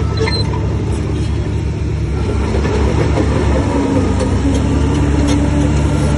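Heavy diesel engine of earthmoving machinery running steadily, a little louder and harder from about three seconds in.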